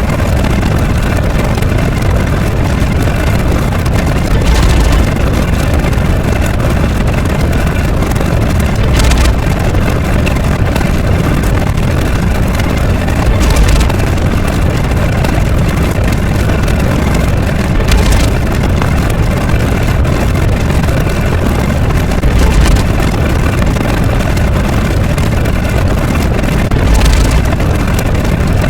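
Loud, continuous engine-like rumble that swells briefly about every four and a half seconds.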